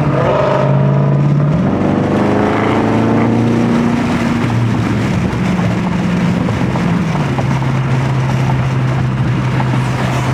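Car engine running while driving in traffic, heard from inside the car: a steady low drone that steps up in pitch about two seconds in, climbs for a few seconds, then settles back to a steady lower drone past the middle.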